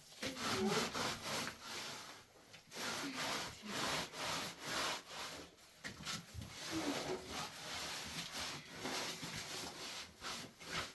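Repeated rough rubbing or scraping strokes against a hard surface, irregular, about one or two a second, with short pauses between runs.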